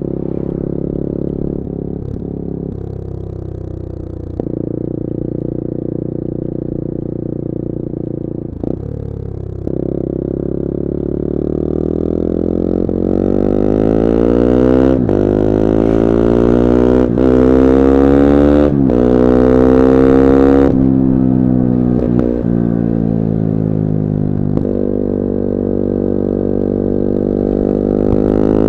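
Bullit Hero 250's CF Moto 250cc four-stroke engine under way. It runs steadily at first, then accelerates up through the gears from about a third of the way in, with three brief breaks at the gear changes, eases off and settles, and picks up again near the end.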